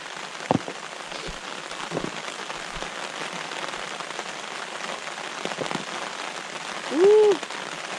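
Rain pounding on a large sun umbrella overhead: a steady hiss of falling rain with a few louder drops striking sharply.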